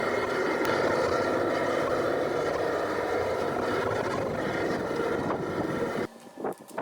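A workshop power tool or machine running steadily with a constant whine, then shut off abruptly about six seconds in; a few light knocks follow.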